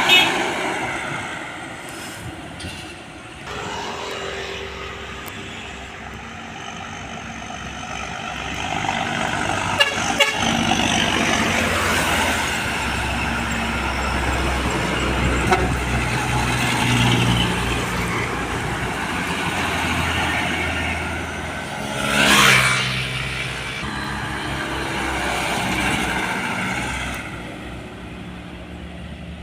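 Heavy trucks passing on a road with diesel engines running, and truck horns sounding at the start. A louder pass-by comes about 22 seconds in.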